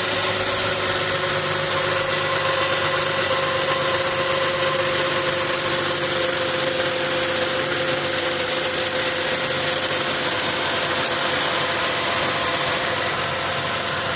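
A 2010 Ford Mustang's 4.0-litre V6 idling steadily with a loud, almost metallic noise of the kind that shows up on a cold start after hours of sitting, which the owner suspects comes from the lifters.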